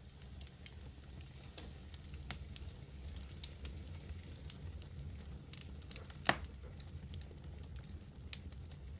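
Wood fire burning, with a steady low roar and faint hiss under scattered small crackles. One louder pop comes about six seconds in.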